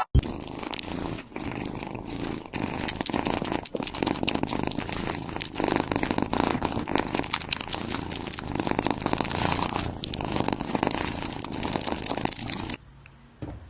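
Domestic cat purring close to the microphone, a fine rapid rattle that swells and eases every second or two with its breathing, and stops abruptly near the end.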